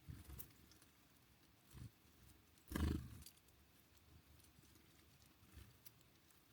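A few soft, short low thumps, the loudest a little under three seconds in, with faint scattered clicks.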